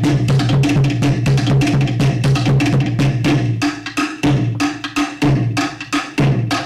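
Fast Tahitian dance drumming: rapid, sharp wooden slit-drum strikes over a deep, pulsing drum, with the drumming briefly thinning out about four and six seconds in.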